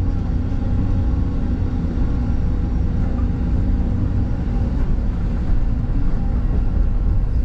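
Excavator's diesel engine running steadily, heard from the operator's seat.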